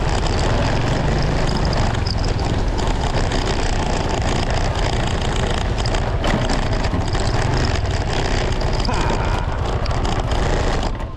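Vehicle under way: steady engine, road and wind noise, which drops off sharply right at the end.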